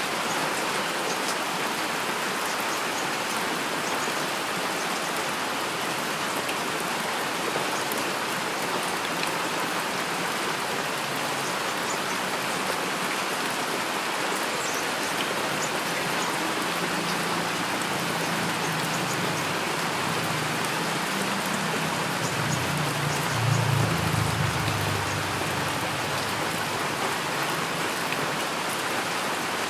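Heavy rain falling steadily. About two-thirds of the way through, a low rumble of distant thunder swells, peaks and fades away.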